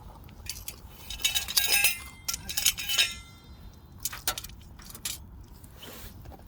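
Tableware clinking: two bursts of several ringing clinks, the first about a second in and the second around two and a half seconds in, followed by a few scattered clicks.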